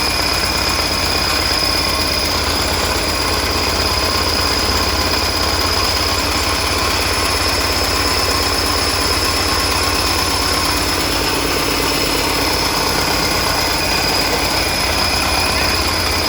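Isuzu 4BG1 four-cylinder diesel engine running steadily at an even speed, with a thin steady high-pitched tone over the engine sound.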